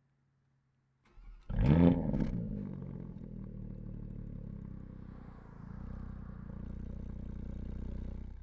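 2017 Porsche Panamera Turbo's twin-turbo 4.0-litre V8 starting. A brief crank about a second in, then the engine catches with a sharp rev flare, its loudest point. It settles into a steady idle at about 1,000 rpm, which stops abruptly near the end.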